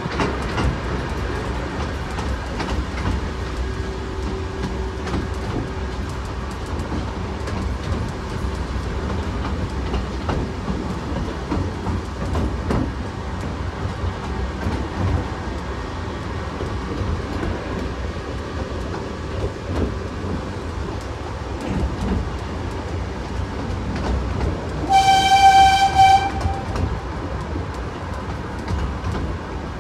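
Miniature railway train running with a steady rumble and clickety-clack of the wheels over rail joints; about 25 seconds in it gives a single high toot lasting about a second and a half.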